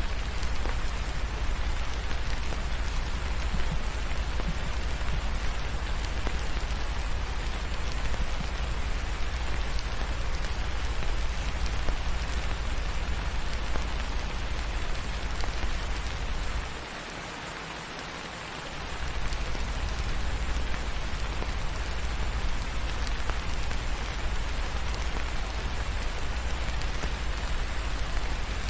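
Steady heavy rain falling, a dense even hiss with a deep low rumble beneath it. The low rumble drops out for about two seconds a little past the middle, making the rain briefly thinner and quieter, then returns.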